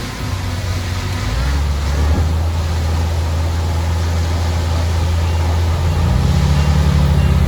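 Heavy diesel engine of earthmoving machinery running steadily, its low drone strengthening and its pitch rising slightly about six seconds in as it comes under more power.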